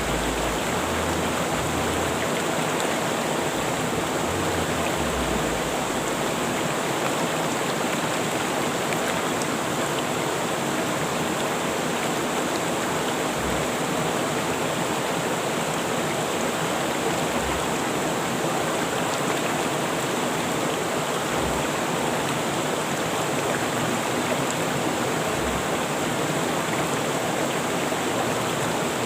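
Rushing river water flowing steadily in an even, unbroken hiss.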